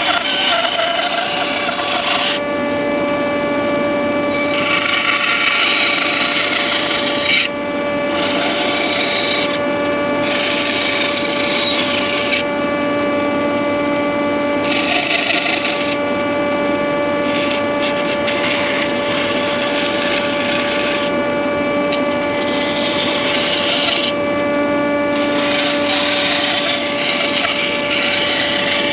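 An electric woodworking saw running with a steady hum while it cuts pine, the rasping cut coming and going in spells of one to three seconds several times as the wood is fed through.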